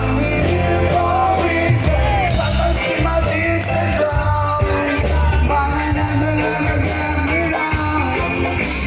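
Rock music with a singing voice over heavy bass and drums.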